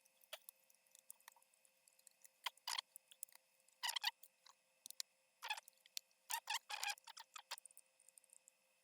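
Faint, irregular small clicks and taps of a cheap plastic portable blender being handled and taken apart, with a few denser clusters of clicks around the middle.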